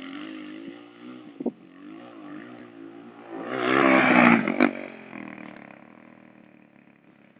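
Motocross dirt bike engine revving up and down, loudest about four seconds in, then fading away.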